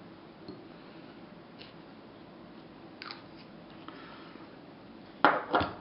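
Small handling noises at a fly-tying bench: a few faint ticks, then two sharp clicks about half a second apart near the end.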